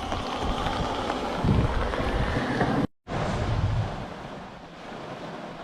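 Storm wind buffeting the microphone along with blowing rain, a steady rush. It cuts out abruptly for a moment about three seconds in, then comes back quieter.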